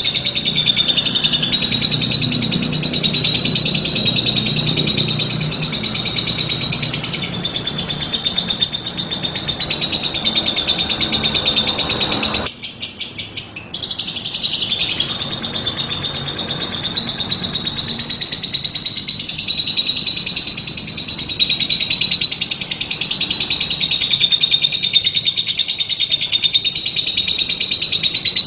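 Fischer's lovebird singing: a continuous, rapid, high twittering chatter, broken briefly about halfway through.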